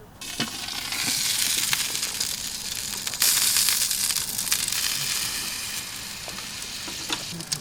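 Meat sizzling on a hot grill. The sizzle starts suddenly, builds over the first second, and jumps louder about three seconds in, with small crackles throughout.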